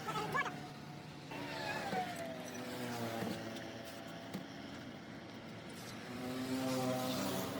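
Motor vehicles on the road going past, engines running, one dropping in pitch as it goes by.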